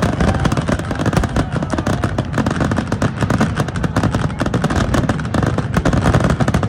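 Aerial fireworks shells bursting in a rapid, unbroken barrage of overlapping booms and crackling.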